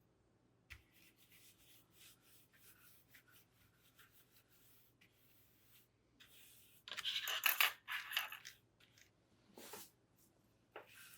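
A keyboard with its keycaps plucked off being cleaned: faint scattered scratching and ticking, then a burst of louder rubbing and scraping about seven seconds in, and one more shortly before the end.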